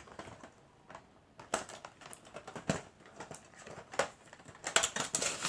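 Candy wrapper crinkling and crackling in irregular bursts as a piece of Easter chocolate is unwrapped, busier from about a second and a half in.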